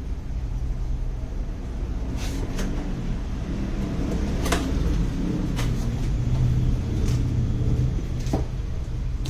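Scattered sharp clicks and knocks, about six of them and irregularly spaced, over a steady low rumble.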